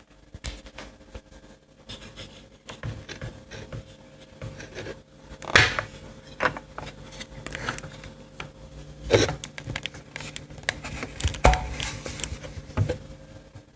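Irregular knocks, clatter and rubbing of things being handled and moved, with the loudest knocks about five and a half, nine and eleven and a half seconds in.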